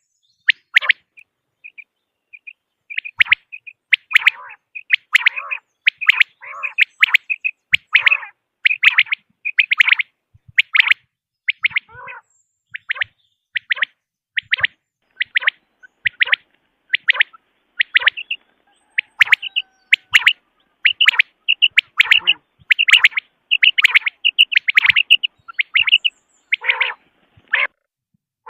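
Quail calls of the kind used as a hunting lure: a long run of short, sharp chirps in quick succession, some in clusters of two or three, fainter for the first couple of seconds.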